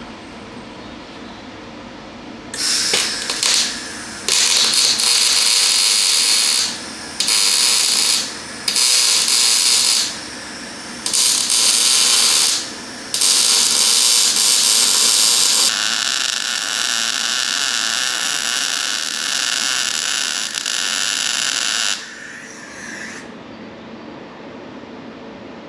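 Welder arcing in a string of short bursts as patch plates are welded onto a rusted Toyota Hilux steel chassis leg, each run starting and stopping sharply, ending with one longer, steadier run.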